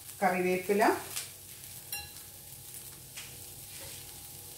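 Fresh curry leaves dropped into hot coconut oil and fried grated coconut in a pan, sizzling faintly, with a few small pops and clicks.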